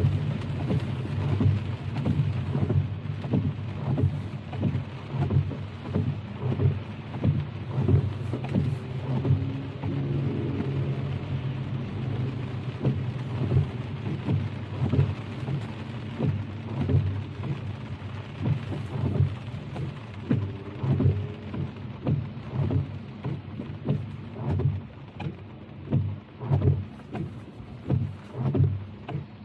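Rain pattering irregularly on a moving car, the drops coming as many quick taps over a steady low rumble.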